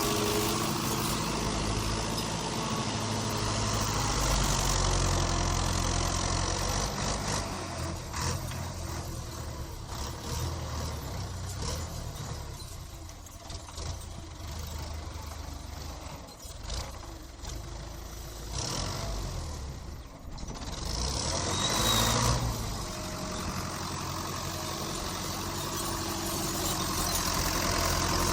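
Fiat 640 tractor's diesel engine running steadily, dropping quieter partway through and growing louder again near the end.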